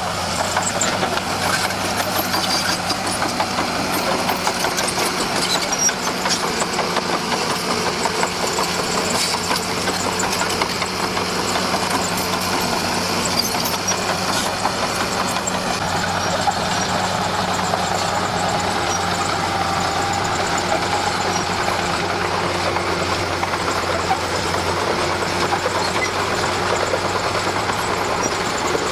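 Komatsu D41P bulldozer's diesel engine running steadily, with a dense, even clatter over a constant low hum.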